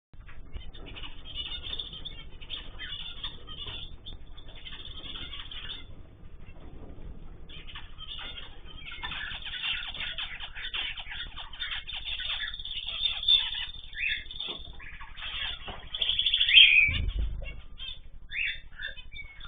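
Cage birds chirping busily and fluttering their wings, with a brief low thump near the end.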